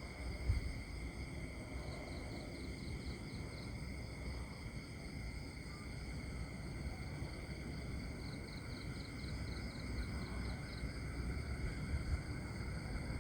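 Countryside nature ambience of crickets and other insects trilling steadily, with two stretches of pulsed chirping at about six pulses a second, over a low rumble.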